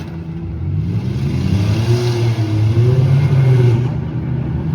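Minivan engine revving hard in a demolition derby: the pitch climbs about a second in, wavers at high revs, and falls back near the end.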